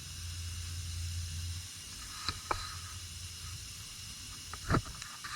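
Air hissing steadily out of a motorcycle tire's open valve as the tire deflates toward empty; a low rush under the hiss stops about two seconds in, and a few faint clicks follow.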